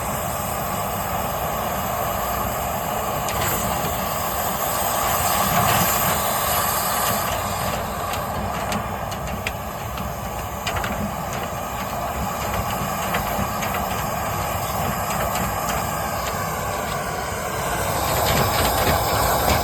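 Dryer vent cleaning equipment running steadily with a loud rushing hiss that starts abruptly, with scattered light clicks through it.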